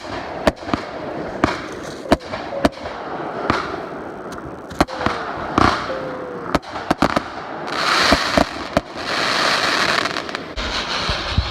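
Fireworks going off: a string of sharp bangs at irregular intervals, a few short falling whistles, and a dense crackling stretch about eight to ten seconds in.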